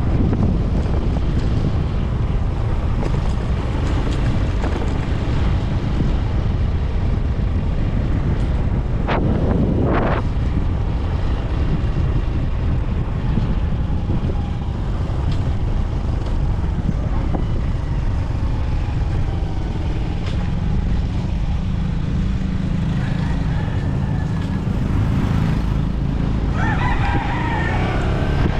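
Honda TMX 125 Alpha motorcycle's single-cylinder engine running steadily while riding, with wind noise on the microphone. A brief rising sweep about a third of the way in and a short wavering call near the end.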